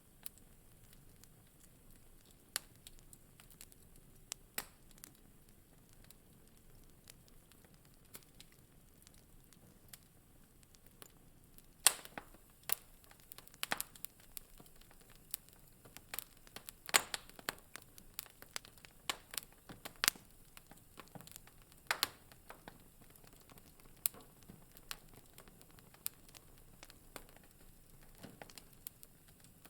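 Wood fire crackling in a fireplace: scattered sharp pops and snaps over a faint hiss. The pops are sparse at first and come thicker and louder from about twelve seconds in.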